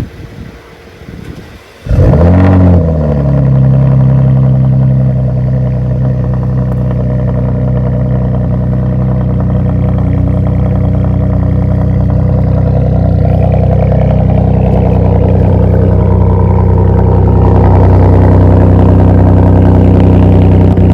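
Porsche engine through a muffler-deleted exhaust: about two seconds in it comes on suddenly and loudly with a brief rise in revs, then runs loud and steady under power, climbing a little near the end.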